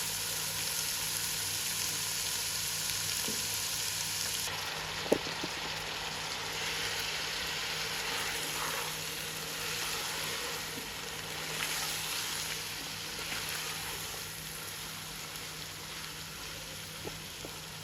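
Masala frying in oil in a pan with a steady sizzle. The hiss changes abruptly about four and a half seconds in. There is a sharp tap about five seconds in and a few light taps near the end.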